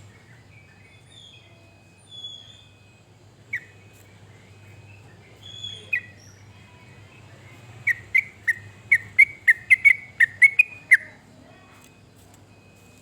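Yellow-vented bulbul (trucuk) singing: a few scattered short chirps, then about eight seconds in a fast run of about a dozen loud notes, some four a second, lasting about three seconds.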